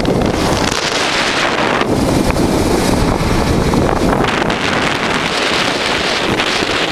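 Wind rushing and buffeting over the microphone of a motorcycle at road speed, with the bike's running noise underneath. The upper hiss eases from about two seconds in and comes back about two seconds later.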